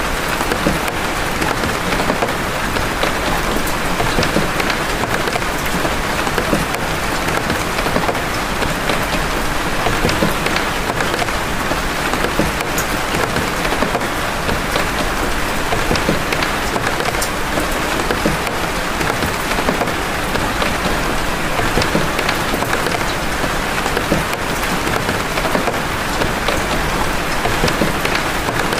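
Steady rain of big drops, single drop hits standing out as sharp ticks over an even hiss.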